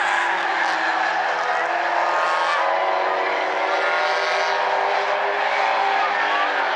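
Several race cars' engines running at speed around a figure-8 track, their overlapping engine notes rising and falling as the cars go through the turns and pass.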